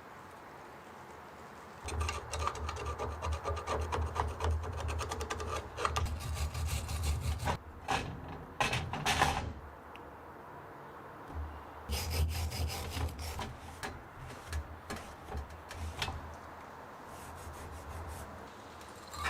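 Quick back-and-forth rubbing strokes of a hand tool working a carburetor part, in two long runs separated by a short pause.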